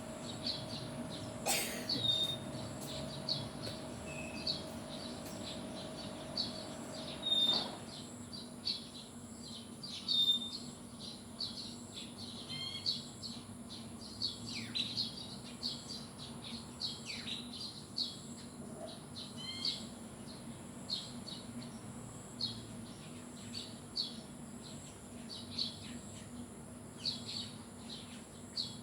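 Small birds chirping: many short, high chirps repeated throughout, some with quick downward sweeps. A faint steady hum underneath stops about seven seconds in.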